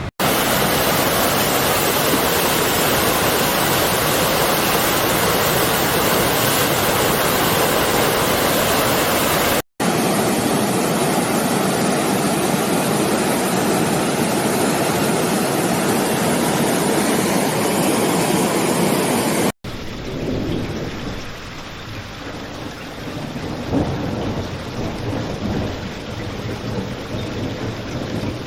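Steady, loud rush of water in three clips joined by abrupt cuts, about a third and two thirds of the way through. The last clip is quieter and duller.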